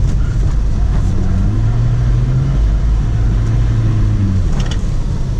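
BMW E46 320d's M47 four-cylinder turbo-diesel engine pulling under load, its note rising about a second and a half in, stepping down a second later, and falling away near the end, over a steady low rumble.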